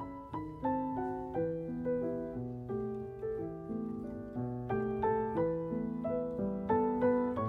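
Gentle background piano music: single notes and chords struck at a slow, even pace and left to fade.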